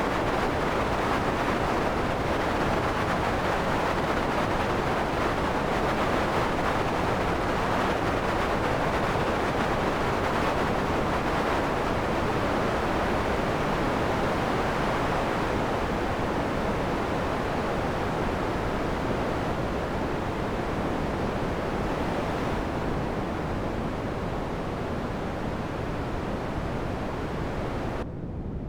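Synthesized wind made in Max: a steady rushing filtered noise, strongest in the middle range, that eases slightly in the last third. Just before the end its upper frequencies drop out abruptly.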